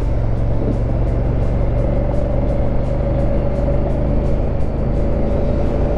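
Honda Africa Twin CRF1000L's parallel-twin engine running steadily at an even cruising speed, with wind rush.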